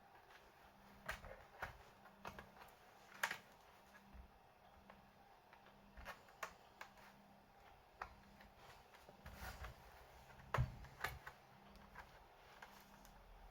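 Faint, irregular clicks and taps, about a dozen scattered through, from handling the laptop and its small parts.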